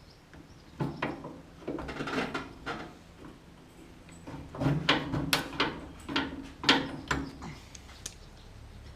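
Scattered knocks and clunks of things being handled, busiest about halfway through.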